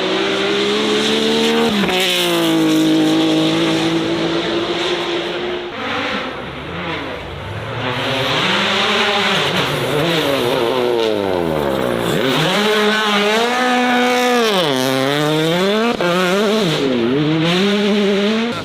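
Racing car engine revving hard. It holds a high, steady note for a few seconds, then its pitch repeatedly climbs and drops, as if with throttle blips and gear changes.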